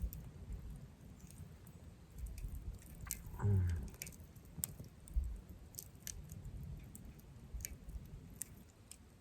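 Wood campfire crackling, with sharp irregular pops of burning wood. A short falling sound about three and a half seconds in is the loudest moment.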